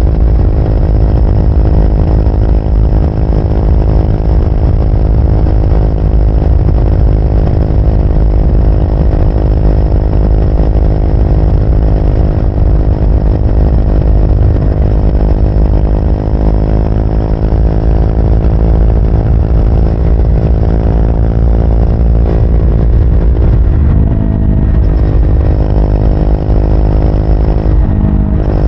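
Triumph Speed 400's single-cylinder engine running under way at a steady pitch, with a heavy low rumble of wind and road beneath it. The engine note shifts briefly about 24 seconds in and again near the end.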